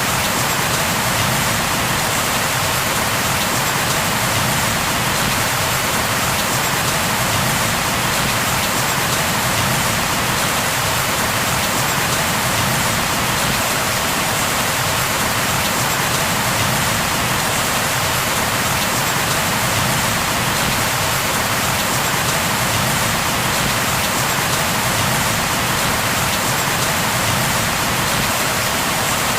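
Steady, heavy rainfall hitting a surface, a dense even hiss of many drops with no breaks.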